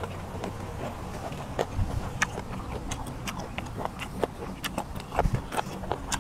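Close-miked chewing of squid: irregular wet clicks and smacks from the mouth, with a couple of low thumps.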